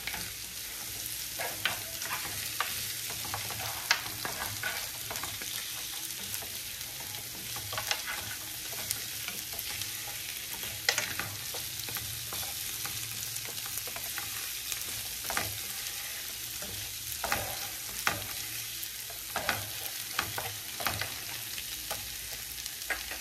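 Beef, onions, leeks and tomato paste sizzling steadily in a non-stick frying pan as a wooden spatula stirs them, with scattered scrapes and knocks of the spatula against the pan.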